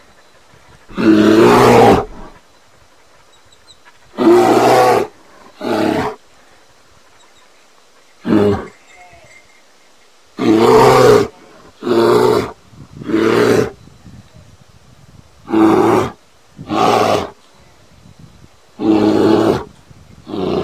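A bear roaring repeatedly: about eleven deep calls, each a second or less long, with one- to two-second pauses between them.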